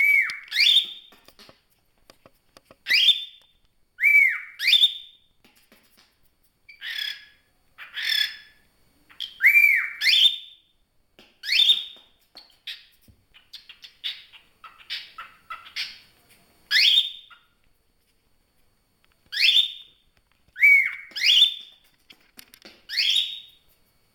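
A pet bird giving a long series of short, shrill calls, mostly quick upward-sweeping squawks, some arched, often in pairs, with short pauses between them.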